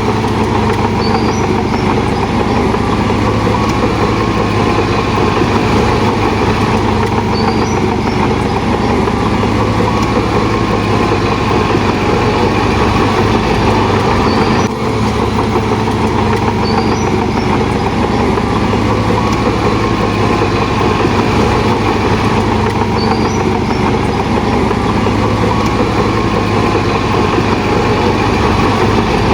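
Heavy diesel engine of a Shantui DH17 bulldozer running steadily, with a brief drop in sound about halfway through.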